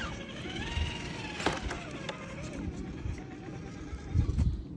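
Electric motor and gear whine of a radio-controlled crawler truck, its pitch rising and falling with the throttle as it works over a log, with a sharp click about a second and a half in and low knocks near the end.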